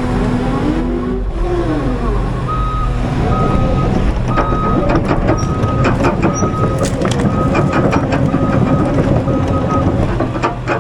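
Heavy equipment backup alarm beeping about once every 0.8 seconds, nine beeps in all, over the steady diesel rumble of a tracked machine working. Scattered sharp cracks sound through it.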